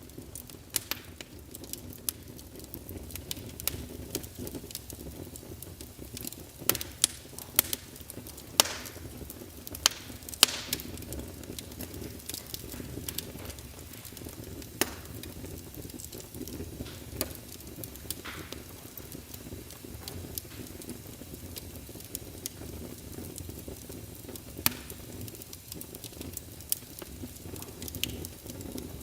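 Wood fire crackling in a fireplace: sharp pops and snaps over a steady low rush of burning, with a flurry of louder pops about seven to eleven seconds in.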